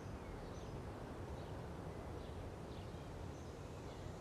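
Faint outdoor ambience: steady background noise with scattered short bird chirps.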